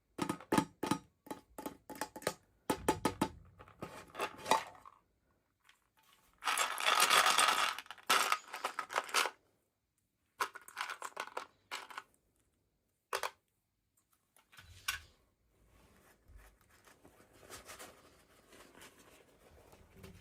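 Toy packaging being opened and handled: a run of sharp plastic clicks and taps, a noisy tearing or crinkling stretch about six to nine seconds in, then a few more clicks and faint rustling.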